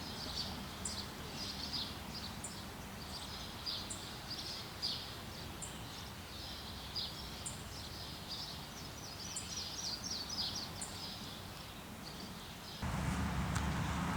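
Birds chirping over and over across a steady background hiss. About thirteen seconds in, the birdsong cuts off and a louder, low steady rumble starts abruptly.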